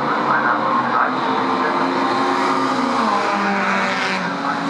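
Several historic touring race car engines running hard at high revs. The engine note drops in steps about three seconds in.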